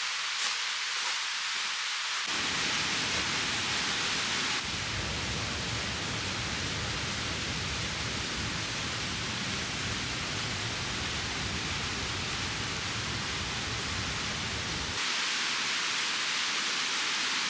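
Mountain stream water rushing steadily, a constant hiss. Its character changes abruptly about two seconds in and again about four and a half seconds in, fuller and deeper through the middle, then thinner again near the end.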